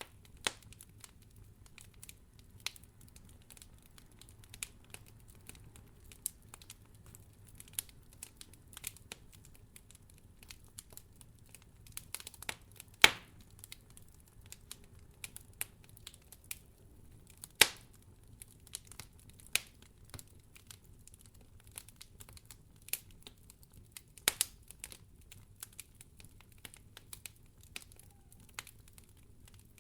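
Wood fire crackling in a fireplace: irregular sharp snaps and pops over a faint, steady low rumble, with three louder pops spread through.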